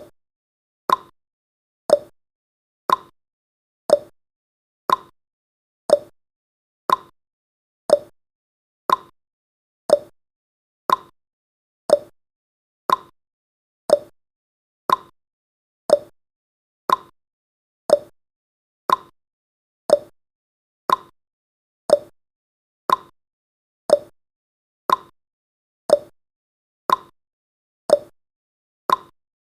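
Countdown timer's tick sound effect: a short, sharp tick once a second, evenly spaced, with silence between.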